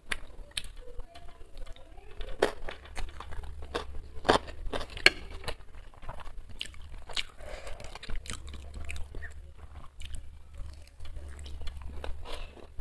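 A person chewing and crunching mouthfuls of chow mein and fried chicken pakora, with irregular sharp clicks of a metal fork against a ceramic bowl.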